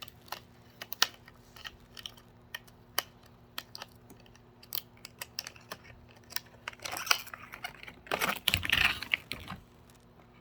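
Cockatoo working at a cardboard box with its beak: scattered sharp clicks and taps, then two bursts of rustling and scraping about seven and eight seconds in.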